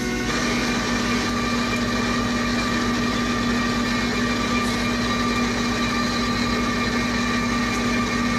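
Steady vehicle engine drone with a constant hum, unchanging throughout; the tail of a train horn cuts off just as it begins.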